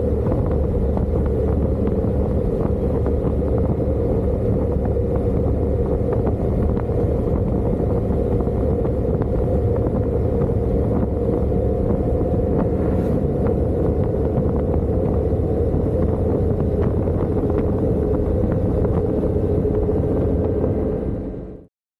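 Motorcycle riding at steady speed: an unchanging engine drone mixed with wind rushing over the microphone. It cuts off suddenly near the end.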